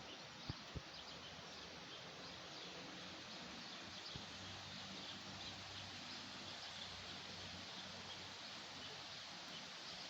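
Faint outdoor ambience: a steady hiss with scattered, distant high bird chirps, and two soft knocks in the first second.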